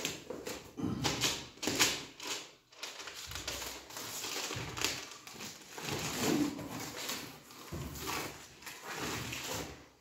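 Foil-faced stone-wool insulation being cut and handled: irregular crinkling and scraping with a few light knocks.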